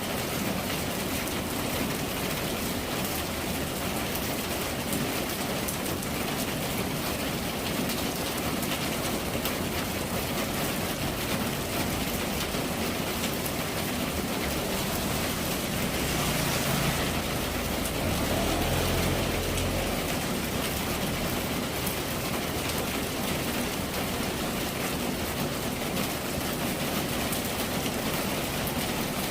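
Steady rain falling, an even hiss. About halfway through, a low rumble swells for a few seconds and fades.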